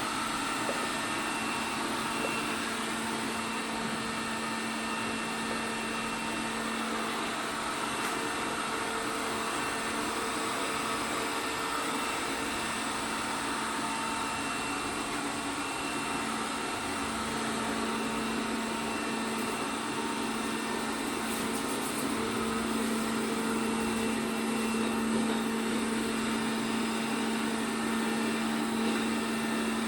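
ELARI SmartBot Lite SBT-002A robot vacuum running: a steady motor and fan hum with a constant tone, growing a little louder over the last several seconds.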